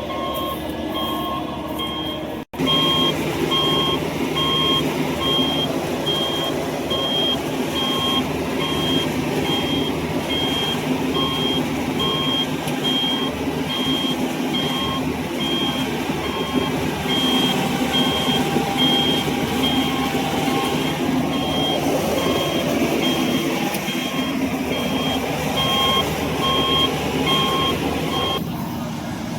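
A heavy machine's reversing alarm beeping steadily, about two beeps a second, over the drone of a diesel engine running. The beeping starts just after a brief cut near the beginning and stops shortly before the end.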